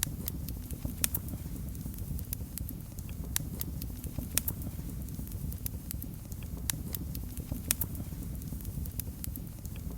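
Wood fire in a fireplace crackling: sharp pops at irregular intervals over a steady low rumble of the flames.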